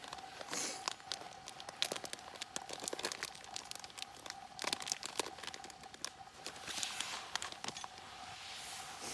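Crinkling and rustling of something being handled, broken by many small clicks and knocks, over a faint steady hum.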